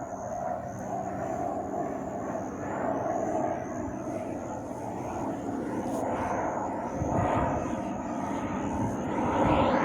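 Aircraft engine noise from a plane in the airfield circuit, steady at first and growing louder toward the end as it comes closer.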